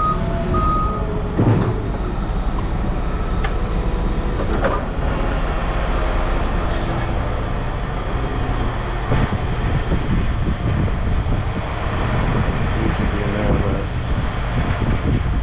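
Heavy vehicle's engine running steadily, its reversing beeper pulsing during the first second. A couple of sharp metal knocks sound in the first five seconds.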